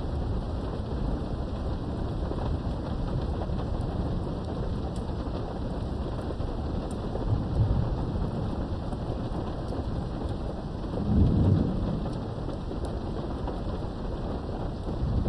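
Steady rain with low rolling thunder during a thunderstorm, heard from indoors behind a window. A louder rumble of thunder swells about eleven seconds in.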